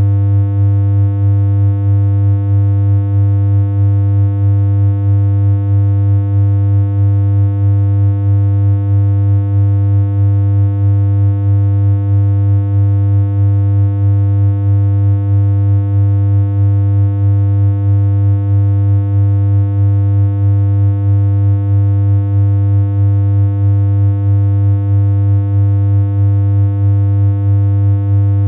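Continuous synthesized electronic hum: a strong steady low tone with higher overtones above it, never changing in pitch, with a slight regular pulse in level.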